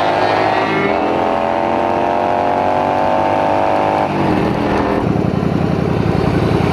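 Motorcycle engine accelerating hard, its pitch climbing, dropping at a gear shift about a second in and climbing again. It eases off around four seconds in, and a low, evenly pulsing engine rumble follows.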